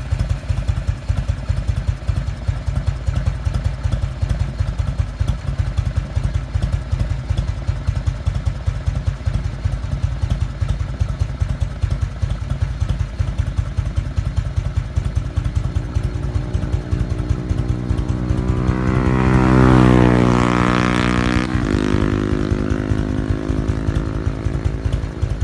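Harley-Davidson FLSTS Heritage Springer's Evolution V-twin idling with its uneven, lumpy beat, then revved once: the pitch climbs from about sixteen seconds in, peaks a few seconds later and drops back to idle.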